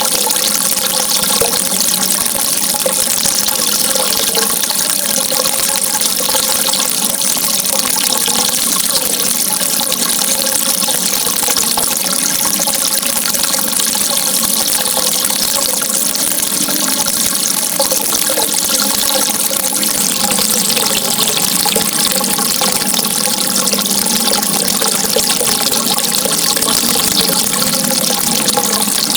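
Steady rushing water, an even hiss that does not change, with faint steady tones underneath.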